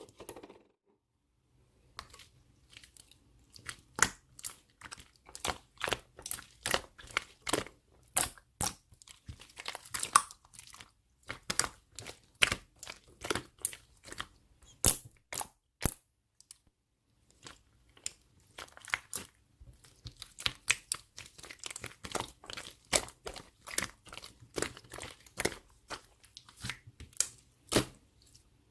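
Hands squeezing, stretching and poking glue slime made with Elmer's glue, giving a run of sharp, sticky clicks and pops about two a second. There is a short pause about a second in and another around sixteen seconds.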